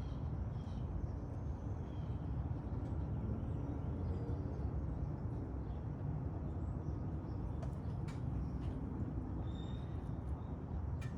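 Steady low rumble of outdoor background noise, with a few faint clicks and a few short, high chirps.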